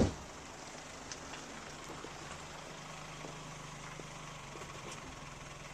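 A single sharp thump right at the start, then a car engine idling with a steady low hum, which stops near the end.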